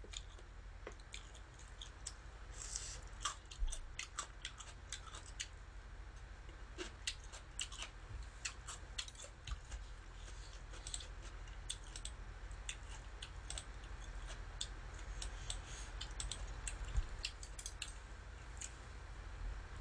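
Close-miked eating: many short wet clicks and soft crunches of chewing, coming thick and fast through the middle and second half. Near the start, metal tongs click in a stainless steel salad bowl.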